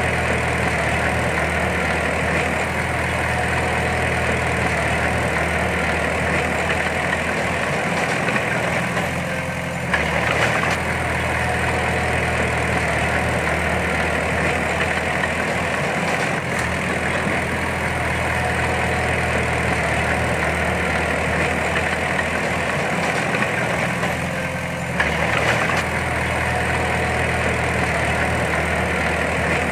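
Diesel engine of heavy earthmoving machinery running steadily, with a brief louder change twice, about ten and twenty-five seconds in.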